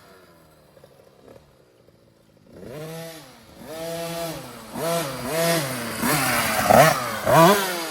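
Husqvarna TC 50 youth dirt bike's 50cc two-stroke engine, running on a 90 main jet. Nearly quiet at first, then from about two and a half seconds in the engine revs up and down over and over, about once a second, and grows louder as the bike comes closer, loudest near the end.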